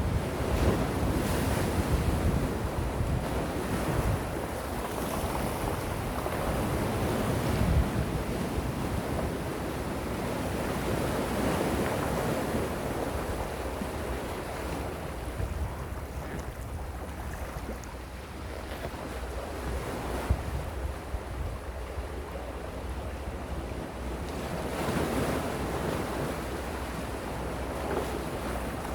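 Calm sea waves washing in, the surf swelling and easing every few seconds, over a low wind rumble on the microphone.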